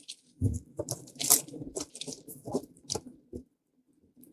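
Irregular clicks, knocks and scraping of an inverter AC's outdoor PCB unit being handled and opened up, dying away in the last second.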